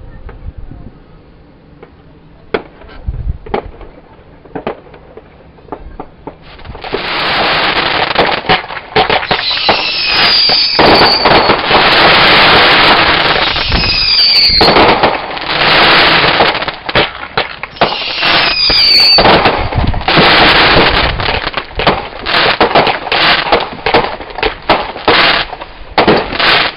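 Fireworks going off: a few scattered bangs, then from about six seconds in a loud, dense barrage of crackling and bursts with several whistles gliding in pitch. Near the end the barrage breaks up into rapid separate pops and bangs.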